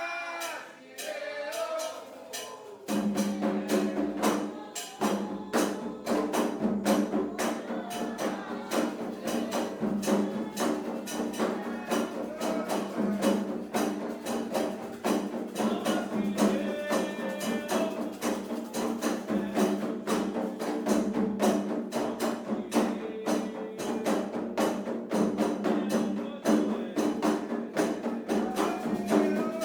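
Candomblé ritual music: voices singing over a fast, steady percussion beat that comes in strongly about three seconds in.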